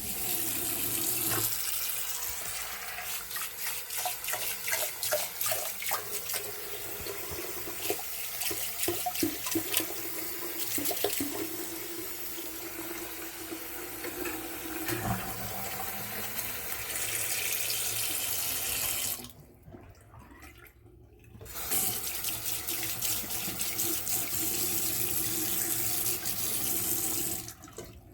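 Faucet running into a sink, with irregular splashing and knocks in the stream. The water cuts off for about two seconds, comes back on, and stops just before the end.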